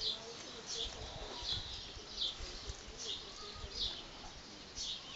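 A small bird chirping again and again, a short falling chirp about once a second, over faint low handling noise.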